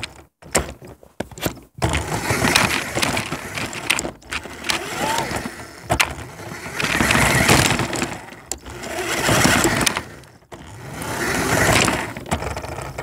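Toy radio-controlled car driving in several bursts, each a second or two long, with sharp knocks and clatter between them.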